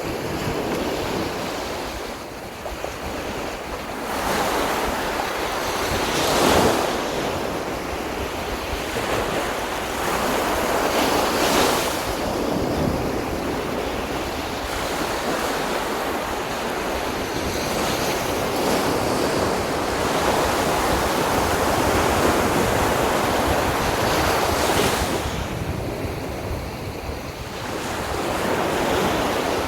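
Sea waves washing onto a beach, rising in several surges as swells break, with wind buffeting the microphone.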